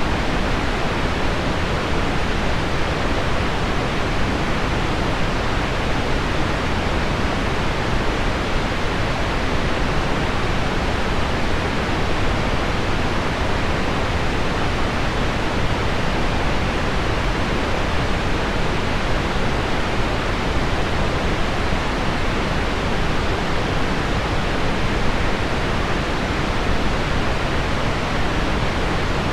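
Steady pink noise mixed with heavy rain on window glass, an even unbroken hiss with no single drops standing out.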